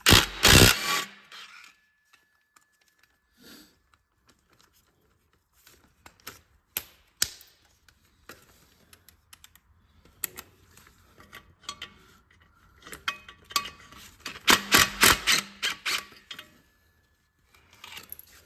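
Ratchet wrench clicking in quick runs as bolts are backed out of an engine, with scattered metal clinks of tools and parts; the loudest runs come at the very start and again about two-thirds of the way through.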